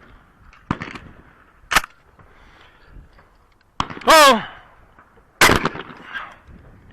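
Shotgun shots on a trap range: four sharp reports of varying loudness, the loudest about five and a half seconds in. A man shouts 'Oh!' about four seconds in.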